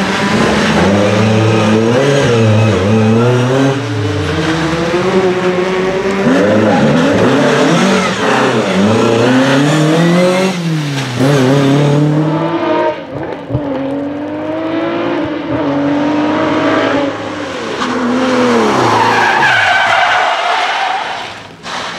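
Rally car engine revving hard and easing off over and over, its pitch swinging up and down, with tyres squealing on the wet surface. It fades away at the very end.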